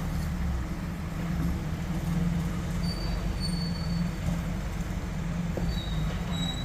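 An off-road vehicle's engine running with a steady low rumble, with a few short, thin high squeals near the middle and again near the end.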